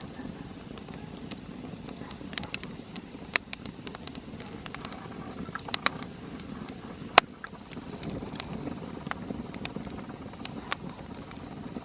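Small campfire burning: a low steady rush with irregular sharp crackles and pops of burning wood, the loudest a little past halfway.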